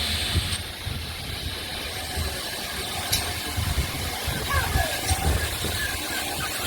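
Steam locomotive hissing steam, which cuts off about half a second in, leaving a low uneven rumble with a sharp click about three seconds in.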